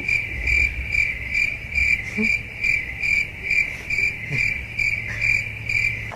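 Insect chirping: one high note pulsing evenly about two and a half times a second, over a low rumble.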